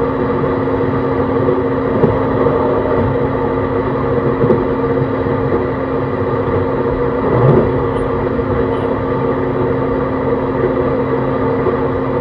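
Interior running sound of an E131-600 series electric multiple unit travelling at steady speed: a continuous rumble of wheels on rail under several steady motor and inverter tones, with a few brief knocks from the running gear, the strongest about seven and a half seconds in.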